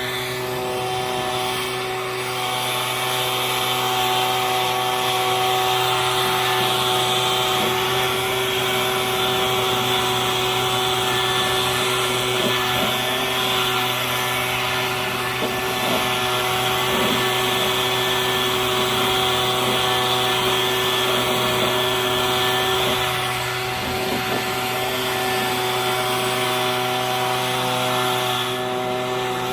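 Leaf blower running steadily at full power, its motor hum under a rush of blown air, used to blow leaves out of house gutters.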